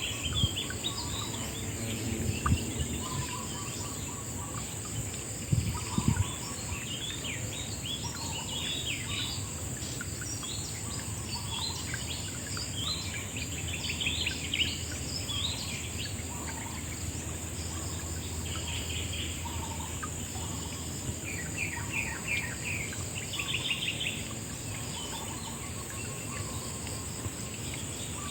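Riverside nature ambience: many birds chirping and trilling over a steady high insect drone, with a low rushing haze underneath. A few low thumps come about two and a half and six seconds in.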